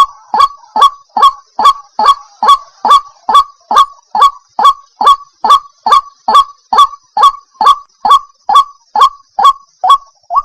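White-breasted waterhen (ruak-ruak) calling: a loud run of short, downward-sliding honking notes, about two or three a second at a very even pace. The calls break off at the very end.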